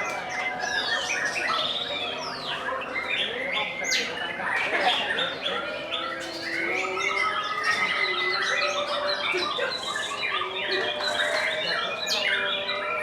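Many caged songbirds singing at once in a contest, a dense, continuous chorus of overlapping whistles and chirps.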